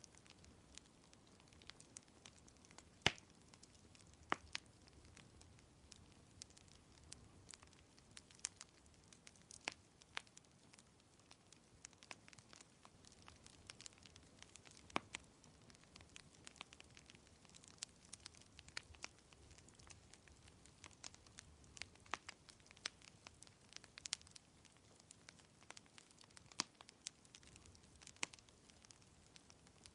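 Wood fire crackling: irregular sharp pops and snaps, a few louder ones among many small ticks, over a faint steady hiss.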